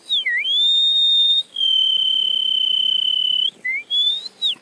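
A man whistling a bird call by mouth, imitating a songbird: a quick swooping note, then two long held high notes, the second a little lower, then short rising slurs near the end.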